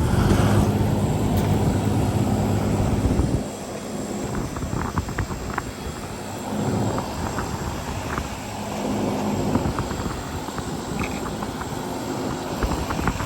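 Old Trane outdoor air-conditioner unit running after its disconnect is put back in: a loud steady hum from the compressor and condenser fan, which drops back about three and a half seconds in, with light clicks after. The system it is running on holds no refrigerant.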